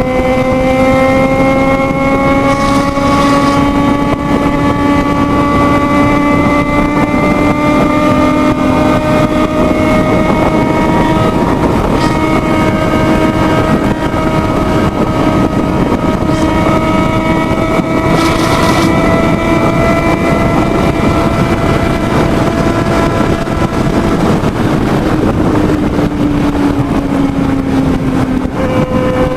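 Motorcycle engine held at high revs at high speed, its pitch creeping slowly upward for most of the time and dropping back a little near the end, with wind rushing over the microphone.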